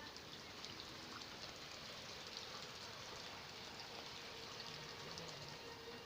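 Rain falling steadily: an even, soft hiss with small scattered drop sounds.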